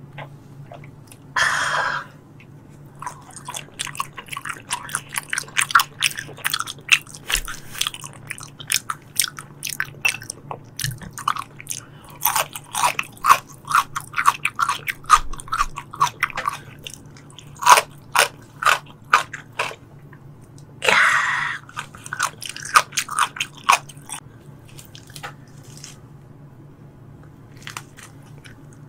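Close-miked chewing of tuna sashimi: dense runs of wet mouth clicks and smacks, pausing briefly now and then. Two short breathy hisses come about a second and a half in and again about twenty seconds later, over a faint steady low hum.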